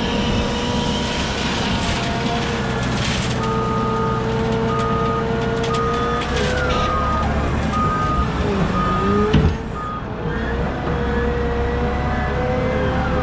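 Heavy diesel machinery running steadily, with a reversing alarm beeping about once a second for some seven beeps, starting a few seconds in. A single sharp thump comes near the end of the beeping.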